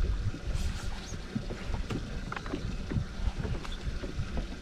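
Wind rumbling on the microphone aboard a small fishing boat, with scattered faint clicks and knocks.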